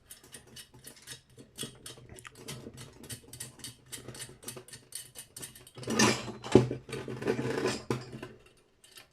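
Small metal clicks and scrapes as a threaded part on a brass light fitting is twisted to break its seal and work it loose, with a louder stretch of rattling and scraping about six seconds in.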